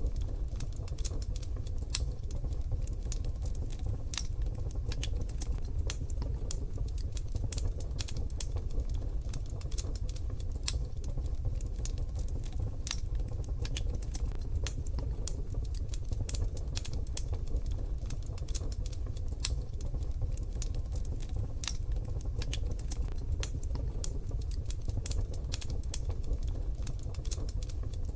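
Wood fire crackling in a wood-burning stove: many small, irregular snaps over a steady low rumble.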